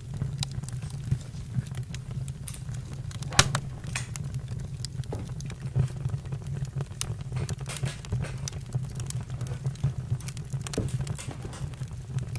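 Campfire crackling: irregular sharp pops and snaps over a steady low rumble, with one louder pop about three seconds in.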